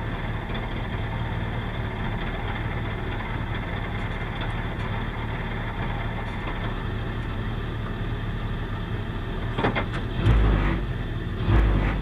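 Renault Clio 3 rally car's two-litre four-cylinder engine idling steadily, heard from inside the cabin while the car stands still. About ten seconds in come a few sharp clicks, then the engine is blipped twice, each time louder and deeper.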